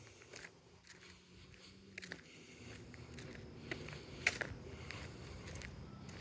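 Irregular light footsteps and small clicks, the loudest about four seconds in, over a faint steady hum and low rumble.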